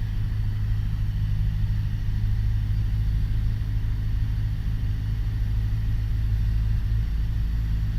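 Piper PA-28 Warrior's four-cylinder Lycoming engine and propeller droning steadily at reduced cruise power in slow flight.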